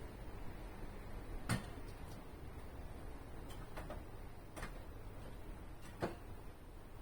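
A handful of light clicks and taps at uneven intervals, as of hand tools or small metal parts being handled, the loudest about a second and a half in, over a low background hum.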